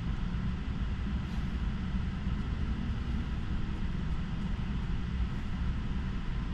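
Steady road and tyre noise heard inside the cabin of a moving Tesla: a low, even rumble with a fainter hiss above it.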